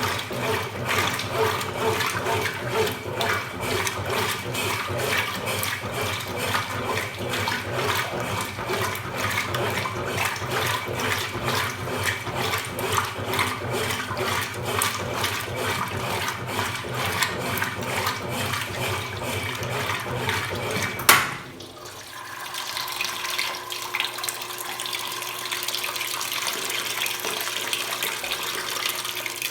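Consul Supercargo 8 kg (CWL08C) top-loading washing machine working with water: a rhythmic churning and sloshing of water in the tub. About two-thirds of the way through, a sharp click, then a steadier rush of running water, like the tub filling.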